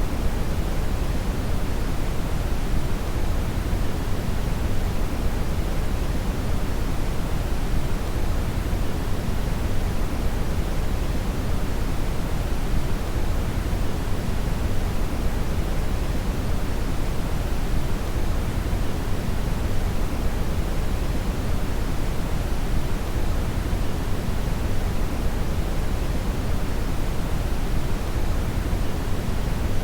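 Steady brown noise (red noise): an unchanging deep rushing hiss, strongest in the low bass and much softer in the treble.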